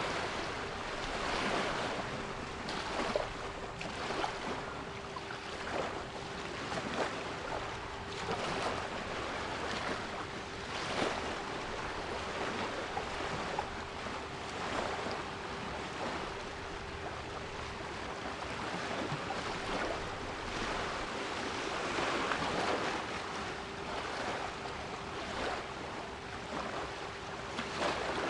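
Sea waves washing in, a continuous rush of surf that swells and falls every second or two, with a steady 396 Hz pure tone held underneath.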